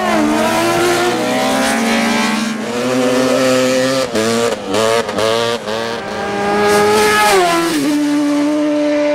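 A racing motorcycle engine revving hard, its pitch climbing and falling. A quick run of breaks and dips comes around the middle, like gear changes or throttle blips, and the revs drop near the end.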